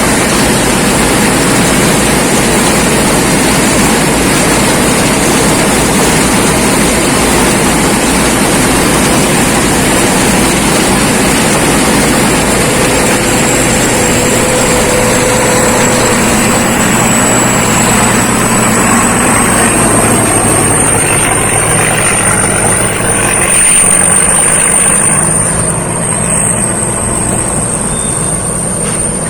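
Rice combine harvester running and working, a loud dense mechanical noise. A thin high whine comes in about halfway, and the noise eases a little near the end.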